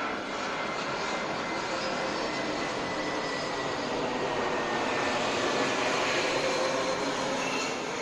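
Jet engines of an Airbus airliner running as it comes in to land: a steady rushing noise with a faint whine that slowly falls in pitch, swelling a little before easing near the end.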